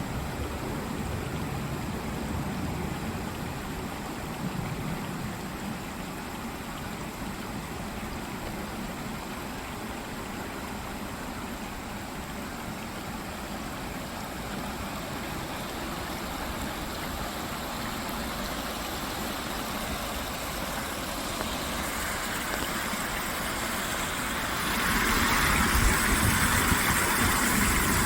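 Steady rushing of running stream water over a low rumble. It grows louder and brighter about 25 seconds in.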